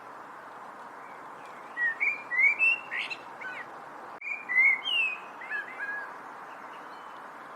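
A songbird singing two short phrases of quick whistled notes that glide up and down, starting about two seconds in and again about four seconds in, over a steady background hiss.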